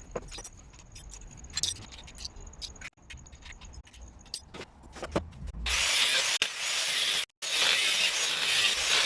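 Tools working on the metal of an old electric water heater: scattered knocks and clicks at first, then, about six seconds in, a loud harsh power-tool noise that breaks off twice for an instant.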